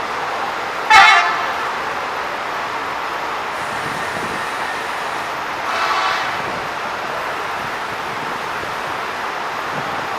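Two vehicle horn toots over steady traffic noise: a sharp, loud one about a second in and a softer one around six seconds.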